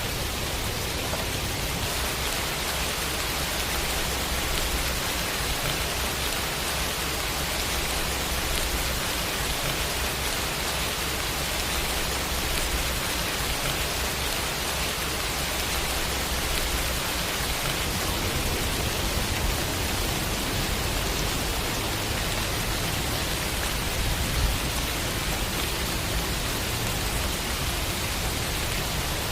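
Steady rain falling, an even hiss with no break, and a single brief tick about 24 seconds in.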